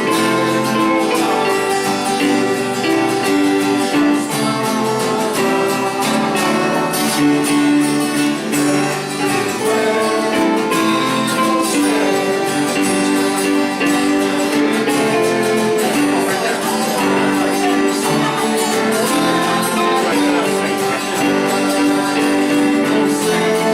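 Music led by strummed guitar, with held notes and chords running steadily.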